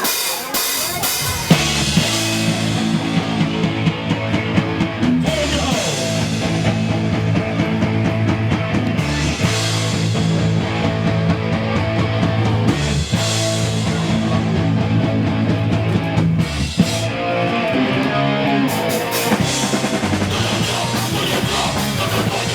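Punk band playing live and loud: drums, distorted guitar and bass, with the full band coming in about a second and a half in.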